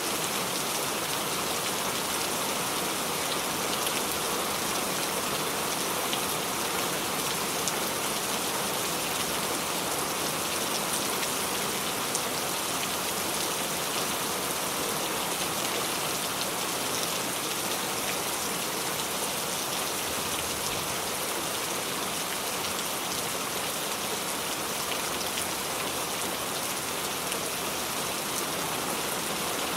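Steady rain falling, an even hiss of many fine drops on a surface with no change in strength.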